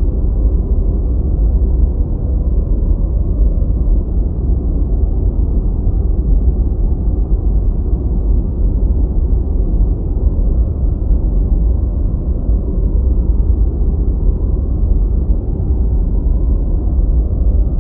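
Steady deep white noise: an even, unchanging low rumble, strongest in the bass, with no hiss on top.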